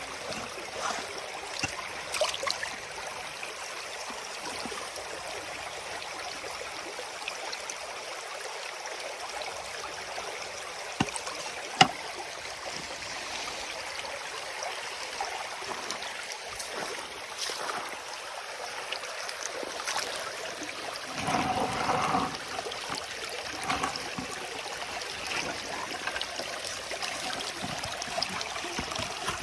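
Creek water running steadily through a sluice box. There is a sharp knock about twelve seconds in and a louder, lower bout of disturbance about two-thirds of the way through.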